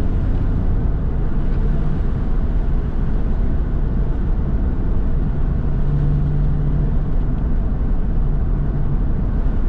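Porsche 911's flat-six engine running steadily under way, with road noise; the engine note grows a little stronger about six seconds in.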